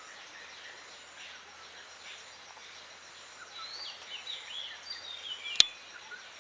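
Jungle bush quail calling: a run of quick chirping whistles, rising and falling, from about three and a half seconds in, over a faint steady insect buzz. A single sharp click near the end is the loudest sound.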